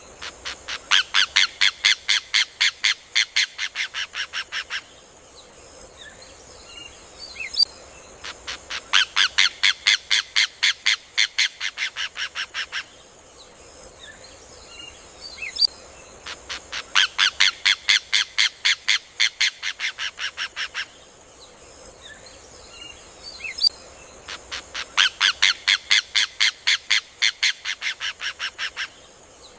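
Rufous hornero (João de Barro) singing: four bouts of rapid, loud repeated notes, about five a second for some four seconds, each bout fading toward its end, one bout every eight seconds. Faint chirps of other birds between the bouts over a steady high hiss.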